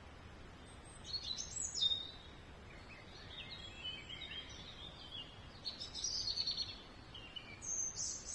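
Small songbird singing in several short bursts of quick high chirps and warbled notes, over faint steady outdoor background noise.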